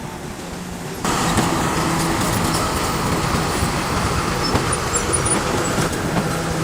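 Bulldozer diesel engine running with a dense rattle of machinery, getting abruptly louder about a second in.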